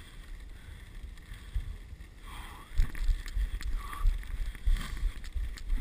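Dog sled running over a snow trail: the runners hiss on the snow, with a low, uneven rumble underneath.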